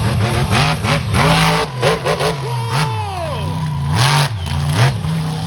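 Monster truck engine revving hard and repeatedly, its pitch rising and falling several times, with sharp knocks in between.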